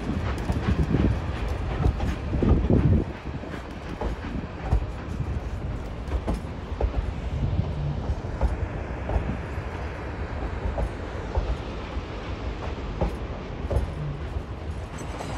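Narrow-gauge steam train rolling along, heard from aboard the passenger cars: a steady low rumble with the wheels clicking over the rail joints, somewhat louder about two to three seconds in.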